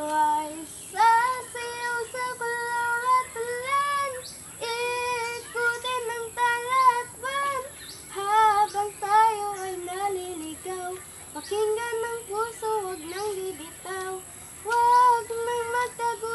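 A child singing a melody in a high voice, phrase after phrase with short breaks for breath, with no accompaniment.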